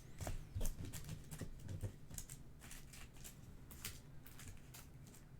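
Trading cards being handled and sorted on a table: irregular light clicks, taps and slides of card stock.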